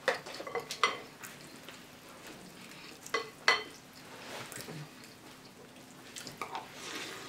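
Crunching of dry cereal being chewed up close, with scattered sharp clicks and crackles.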